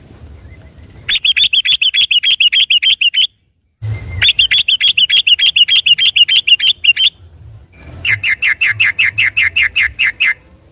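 Yellow-vented bulbul (trucukan) singing a fast rattling 'ropel' song: three loud runs of rapidly repeated notes, about ten a second, with the last run lower pitched.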